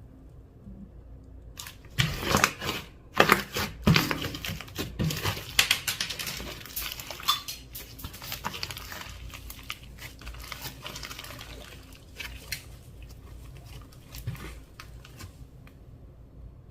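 Clear slime being worked and pressed, giving a dense run of sticky pops and crackles that starts about a second and a half in, is loudest over the next few seconds and thins out toward the end.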